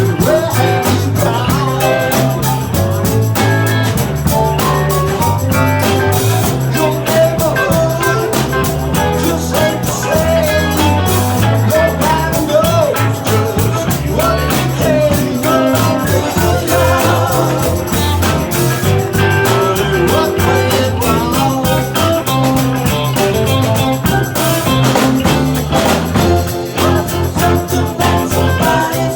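Live band playing a rock song, with a bass line, drums keeping a steady beat, and guitar.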